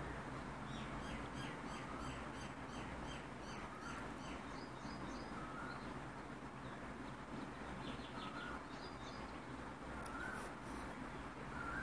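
Birds chirping: runs of quick, high chirps and a short warbled note that comes back every second or two, faint over a steady low hum.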